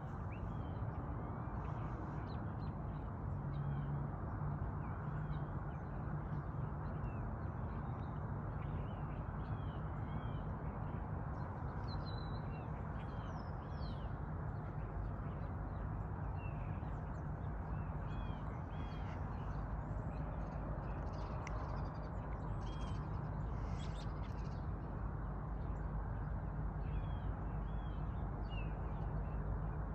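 Birds chirping and calling, many short calls scattered throughout, over a steady low rumble.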